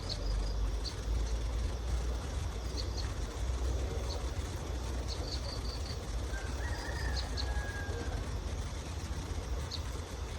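Outdoor ambience: small birds giving short high chirps, a few times, over a steady low rumble.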